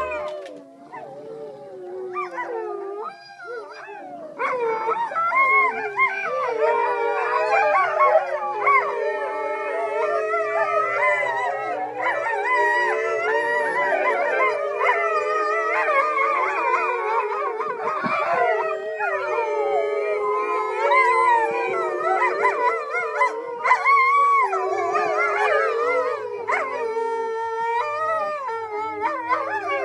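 Wolf pack howling together in chorus: a few wavering howls at first, then many voices overlapping from about four seconds in.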